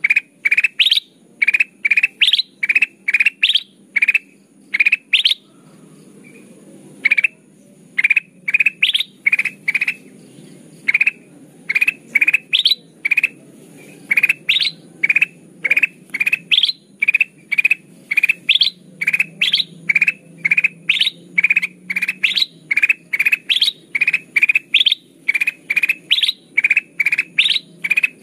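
Kutilang emas lure call: a long run of short, rising whistled notes, about two a second, with a short pause about six seconds in.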